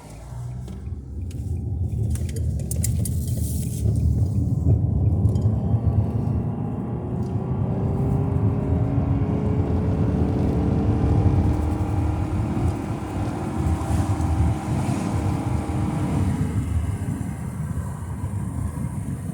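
Wind buffeting a phone's microphone from inside a moving car, a loud low rumble over road and engine noise; it swells up in the first couple of seconds and stays loud.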